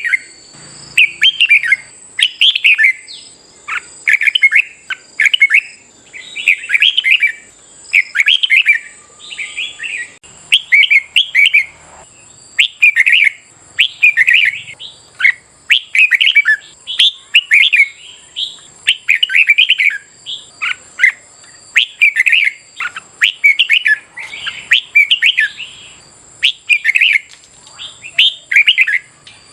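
Red-whiskered bulbul singing: short, loud, warbling phrases repeated about once a second in quick succession, in the bird's competitive song. A faint steady high-pitched tone runs beneath.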